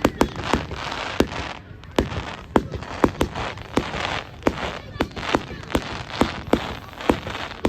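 Fireworks going off: an irregular run of sharp cracks and bangs, two or three a second, over a continuous hissing crackle.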